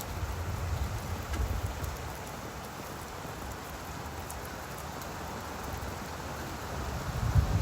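Steady rain falling on leaves, with scattered drop ticks. Low gusts of wind rumble about a second in and again near the end.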